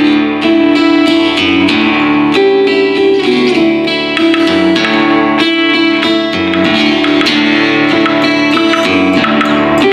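Guitar music: a stream of quickly picked notes over a steady held low tone.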